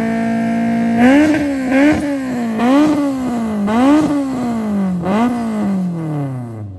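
Honda Civic EG hatchback race car's four-cylinder engine being revved: held at high revs for about a second, then blipped up and down about five times, the revs falling away near the end.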